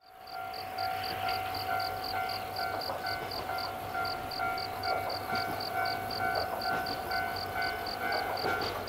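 Level crossing warning alarm sounding: a steady electronic tone, briefly broken about once a second, with a rapid high-pitched pulsing of about four beats a second.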